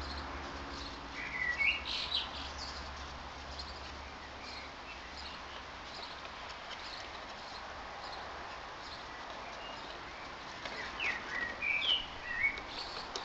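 Small birds chirping: a quick run of chirps about a second in and another burst of several chirps near the end, over a steady low background noise.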